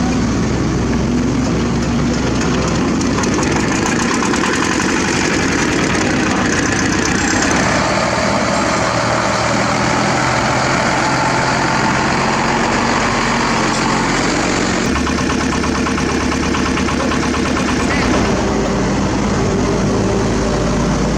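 Diesel engines of heavy lifting equipment running steadily, with a deeper low rumble joining about fifteen seconds in.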